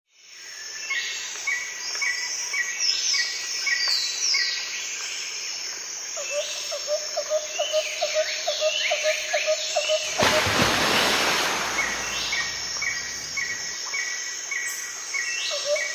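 Tropical forest birds calling, several kinds at once: a quick repeated chirp, trills, and a lower note repeated about three times a second, over a steady high insect drone. About ten seconds in, the rushing of a waterfall comes in and stays loud under the birdsong.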